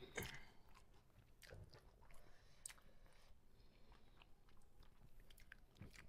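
Faint chewing with small scattered clicks and taps, close to silence, as two people eat rice by hand from steel plates.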